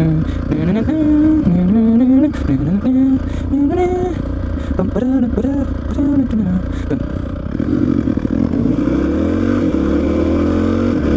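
A man's voice sings or hums a wordless tune over the low idle of a Honda XR650R's big single-cylinder four-stroke engine. About seven seconds in, the engine pulls away with a slowly rising pitch as the bike accelerates.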